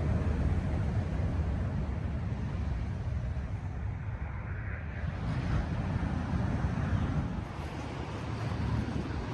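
Wind buffeting the microphone, a low rumble that swells and eases, with the sea's surf behind it.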